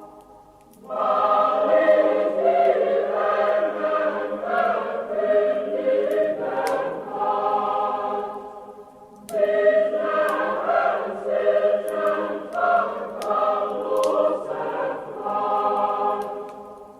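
A choir singing a Christmas song in long held phrases, breaking off briefly near the start and again about nine seconds in.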